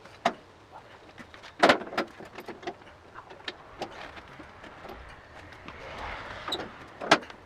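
Clunks and knocks of a motorcycle being handled off a workshop lift ramp, several sharp ones scattered through, with a soft rushing sound swelling and fading about five to six seconds in.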